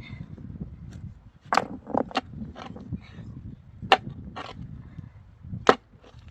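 About seven sharp knocks at uneven intervals, like timber being struck or dropped during building work. The loudest comes near the end, over a low rumbling background.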